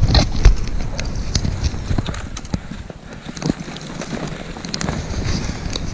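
Footsteps crunching through snow and brush, an uneven run of sharp crunches and knocks with the heaviest impacts in the first half second.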